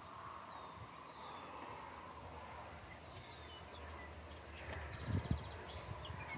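Outdoor farmyard ambience: small birds chirping in short, high, downward-sliding calls over a steady background hiss, with a fast high trill and a few low thumps about five seconds in.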